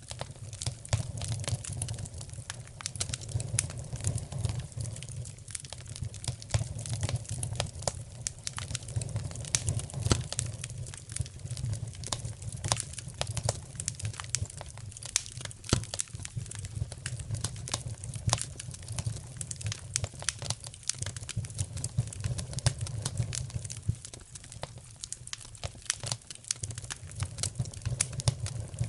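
Wood fire crackling in a fireplace: dense irregular pops and snaps over a steady low rumble of the flames.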